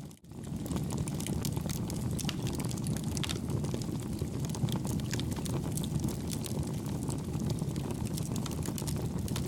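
Campfire burning: a steady low rumble of flame with frequent small crackles and pops from the burning wood. The sound briefly drops out just after the start.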